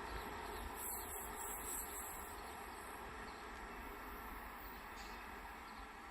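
Faint steady outdoor rumble and hiss, easing off slightly, with a few faint short chirps near the end.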